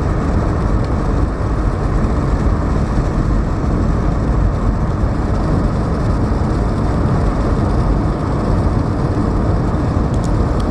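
Steady road and engine noise inside the cabin of a moving car, a constant low rumble.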